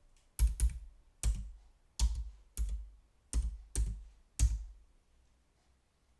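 Computer keyboard keys struck one at a time, close up: seven slow, separate presses, each a sharp click with a deep thump, which stop about four and a half seconds in.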